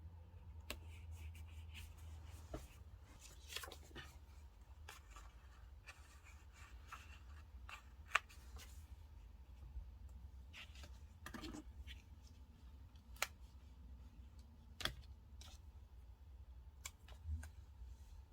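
Faint desk crafting sounds: paper and stickers being handled, with scattered small clicks, taps and short rustles over a steady low hum.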